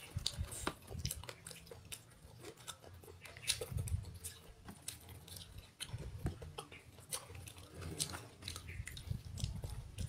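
A person chewing food with the mouth closed: soft wet mouth clicks and smacks scattered irregularly, with a few duller low thuds.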